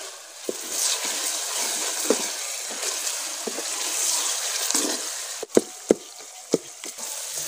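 Onion, tomato and spice masala sizzling in ghee in an aluminium pot as a wooden spoon stirs it: a steady frying hiss. Several sharp knocks of the spoon against the pot come in the second half.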